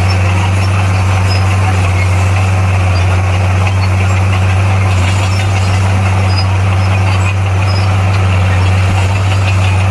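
Heavy diesel engine of earthmoving equipment running steadily at a constant low speed, a deep even drone with no change in pitch.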